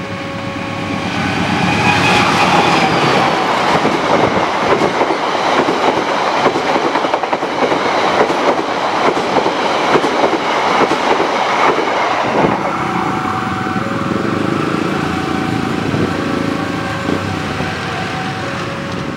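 Passenger train hauled by a diesel locomotive passing close by at speed over a level crossing: a dense rumble and clatter of wheels on rail that drops off sharply about twelve seconds in as the last coach clears. The crossing's warning bell rings in repeated steady tones at the start, and again after the train has passed, stopping near the end.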